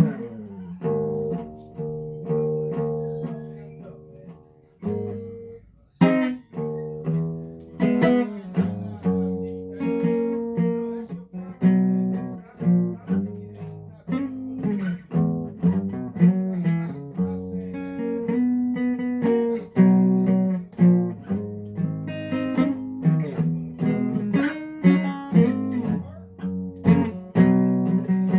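Guitar playing an instrumental passage with no singing: a chord rings and fades for about five seconds, then picked notes and strummed chords start again about six seconds in and keep going.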